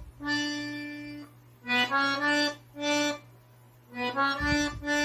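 Accordion playing a slow melody one note at a time, each held note separated by short pauses.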